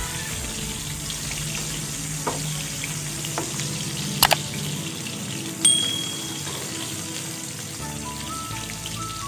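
Chopped onion and garlic sizzling steadily in hot oil in a nonstick wok as they are stirred with a spatula, with a few sharp clicks about four seconds in and a short high ding soon after. Soft background music plays underneath.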